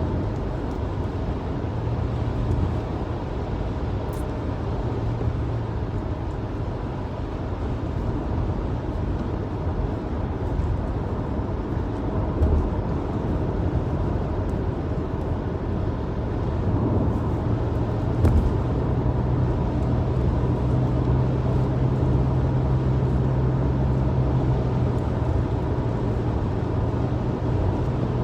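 Steady road and engine noise inside a car driving at highway speed on a snowy road, with a low hum that grows louder a little past the middle.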